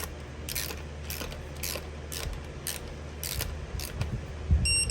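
Ratcheting torque wrench clicking about twice a second as an engine bolt is pulled down to its first-stage torque of 11 ft-lb. Near the end a steady high electronic beep starts.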